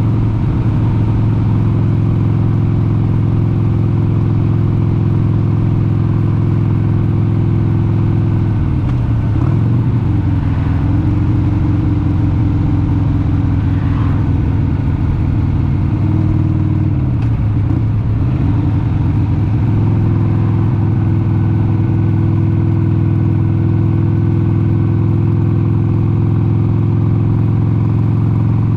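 1996 Harley-Davidson XLH883 Sportster's 883 cc air-cooled V-twin running steadily at cruising speed. Its engine speed dips and recovers twice, about nine and eighteen seconds in.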